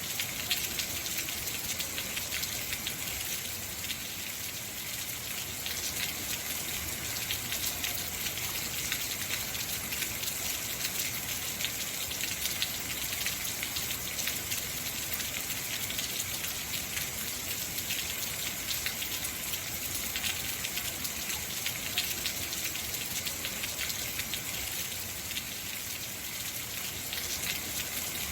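Heavy rain falling steadily: a dense hiss with many close drop taps on hard surfaces.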